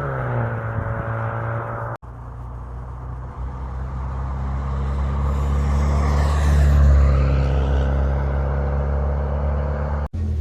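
Ford Fusion with a custom exhaust (2.5-inch pipe, Magnaflow glasspack and resonator) running steadily for about two seconds. After a cut, the car drives past: the exhaust note builds, is loudest about seven seconds in with a falling pitch, and fades away.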